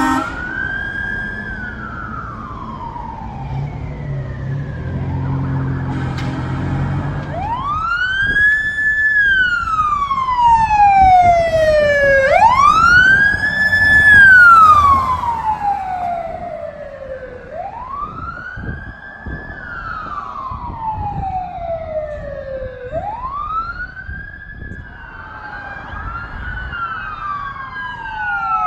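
Emergency vehicle siren on a wail tone: each cycle rises quickly and falls slowly, repeating about every five seconds. It is loudest about halfway through, then eases off a little. A second siren joins near the end.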